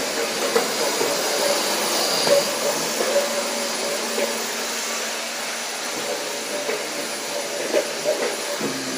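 Vacuum cleaner running steadily with a constant hum, with a few small knocks as it is pushed around.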